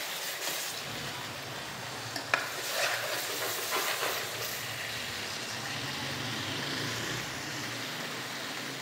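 A thick spiced onion-tomato masala sizzling in a nonstick wok while a metal spoon stirs and scrapes through it. The spoon knocks sharply against the pan about two seconds in, with a few lighter clicks after.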